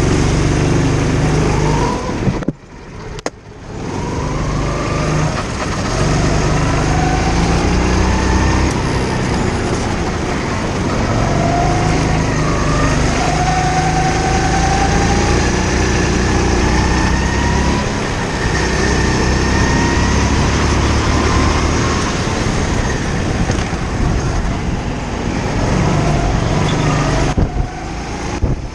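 Indoor kart engine running under load, its pitch rising and falling as the kart speeds up out of corners and lifts off into them. The sound drops away briefly about two and a half seconds in and again near the end.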